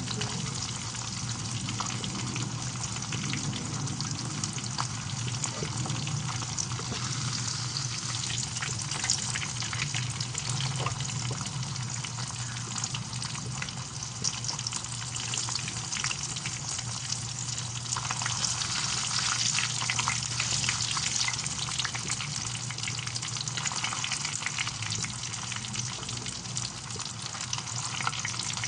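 Milkfish (bangus) frying in hot oil: a continuous sizzle packed with small crackles and spattering pops.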